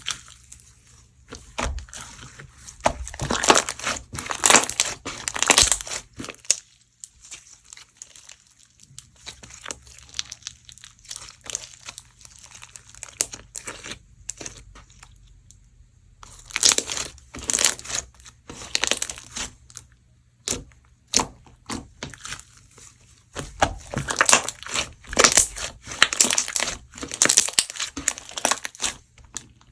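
Rainbow-flake slime being squeezed and pressed by hand, making crisp crackling and crunching. The crackles come in three denser runs, with scattered pops between them.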